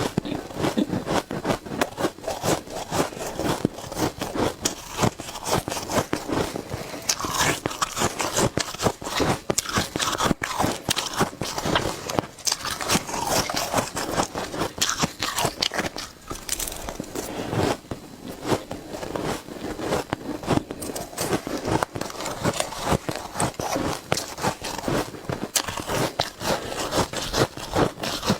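Shaved ice being bitten and chewed close to the microphone: dense, irregular crunching and crackling, with scraping.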